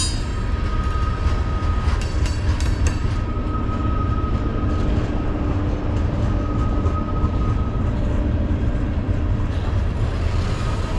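Freight train cars rolling past with a steady heavy rumble, a few sharp clicks from the wheels about two to three seconds in, and a faint high steady tone that comes and goes.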